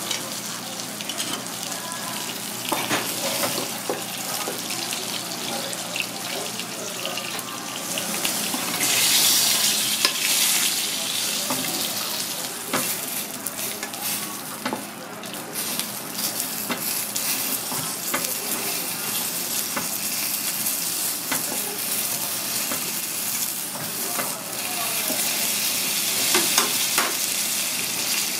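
Halved lobster sizzling in hot oil in a metal frying pan: a steady frying hiss with many small crackles and spits. The sizzle grows louder about nine seconds in and again for the last few seconds.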